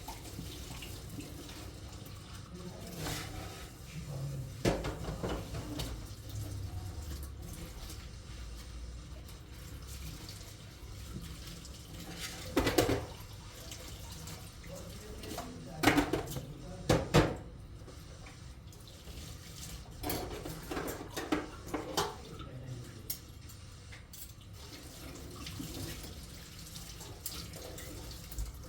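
Water running from a tap into a sink, steady throughout, with dishes or pans knocking and clattering several times, loudest a little past the middle.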